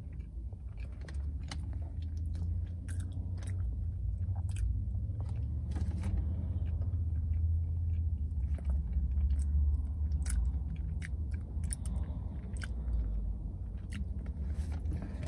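Close-up chewing and biting of a pastry, with many small crisp mouth clicks, over a steady low rumble.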